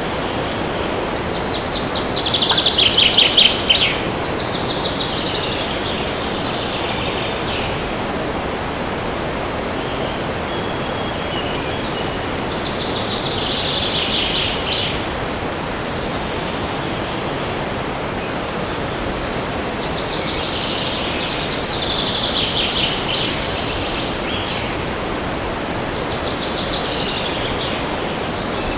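Songbirds singing in a forest over a steady rush of wind. The birds sing short rapid trilled phrases every few seconds, the loudest about three seconds in and others in the middle and near the end.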